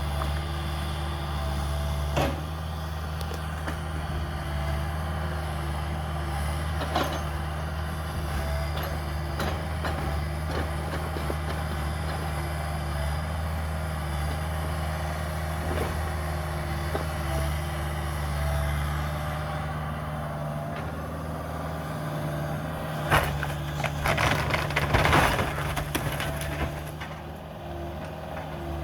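Cat 305 mini excavator's diesel engine running steadily, with scattered knocks, then a burst of cracking and crunching from demolition debris near the end.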